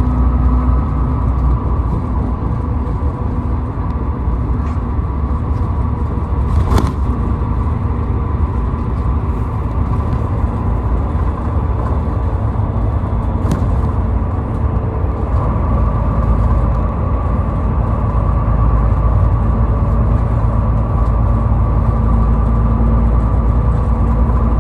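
A car driving at highway speed: a steady low rumble of tyre and engine noise with a constant hum. Two brief sharp clicks, about 7 and 13 seconds in.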